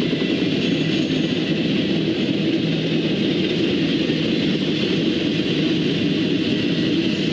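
A train passing close by with a steady rumble of wheels on the rails.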